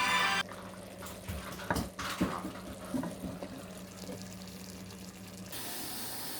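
Music cuts off, then kitchen clatter: a few light knocks over a steady low hum. About five seconds in, a steady hiss takes over.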